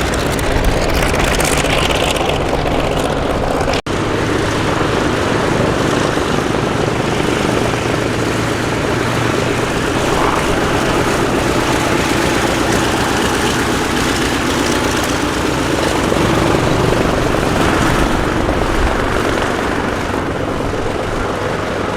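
Pratt & Whitney R-2800 radial engine of a WWII American piston fighter running steadily, with a brief cut in the sound about four seconds in.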